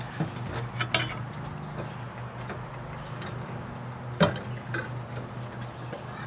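Scattered light clicks and knocks of cooking gear being handled, with one sharper knock about four seconds in, over a steady low hum.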